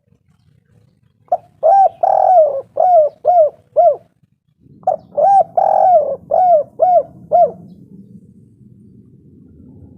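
Spotted dove (tekukur) cooing: two phrases, each a run of about six short coos with one longer, drawn-out note, the second phrase starting about five seconds in.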